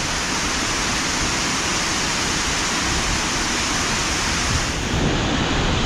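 Steady rush of a waterfall in spate mixed with heavy rain. Near the end the sound turns duller and lower.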